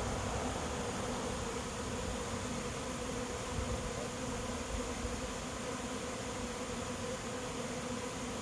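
A swarm of honey bees buzzing steadily in the air as it arrives at a swarm trap, a dense, even hum of many wings.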